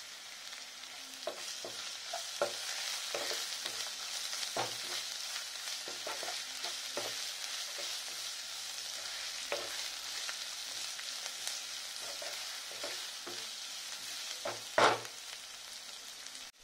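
Chopped onions and green chillies sizzling in hot oil in a nonstick pan as a steady hiss, stirred with a wooden spatula that scrapes and knocks against the pan at irregular moments, the loudest knocks just before the end.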